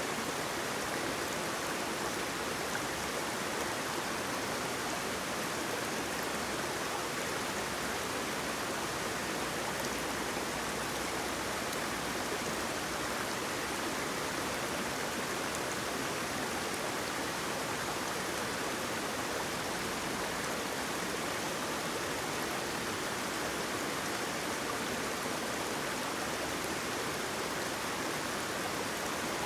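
Waterfall, a steady, even rush of falling and flowing water with no breaks or changes.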